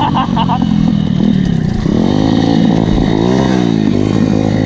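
A 140cc Chinese pit bike's single-cylinder engine revving up and down several times.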